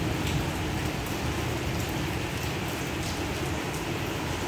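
Steady rain falling, with scattered individual drops ticking now and then.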